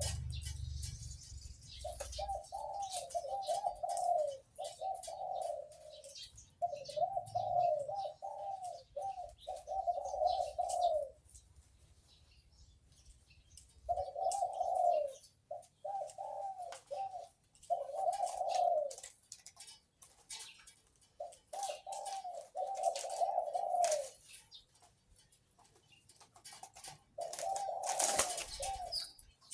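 Captive-bred male dove cooing over and over in deep, rolling phrases of one to four seconds, separated by short pauses. Faint high chirps of other birds sound in the background.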